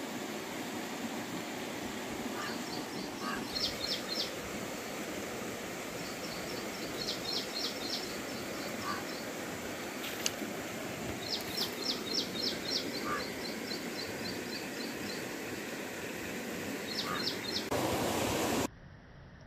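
Outdoor ambience with a steady hiss, over which a bird gives quick series of high chirps every few seconds. Near the end a louder rush of noise comes in and cuts off abruptly.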